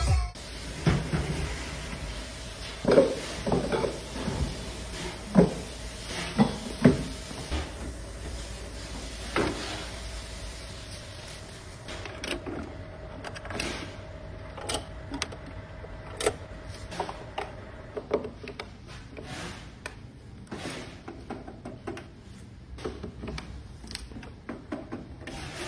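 Irregular knocks and clicks, as from hard objects being handled or bumped, over a faint steady hum that fades out about two-thirds of the way through.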